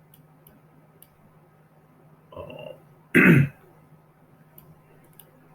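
A man clears his throat once, a short loud rasp about three seconds in, just after a brief low vocal sound. Faint small ticks come before it.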